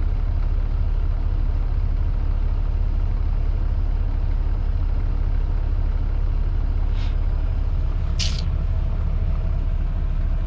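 Semi-truck diesel engine idling with a steady low rumble. Two short hisses of air come about 7 and 8 seconds in, the second louder.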